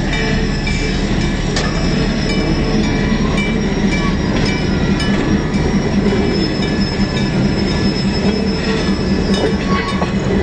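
Electric trolley car rolling along the track, its wheels giving a steady high-pitched squeal over a low running hum, with occasional clicks from the rails.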